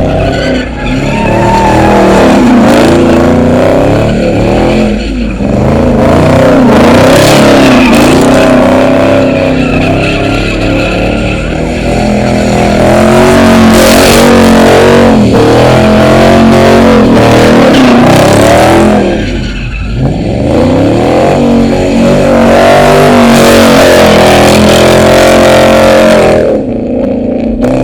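A car spinning its tyres in a burnout, its engine revved hard over and over with the pitch rising and falling, and tyre squeal throughout. About twenty seconds in the revs drop briefly, then climb again.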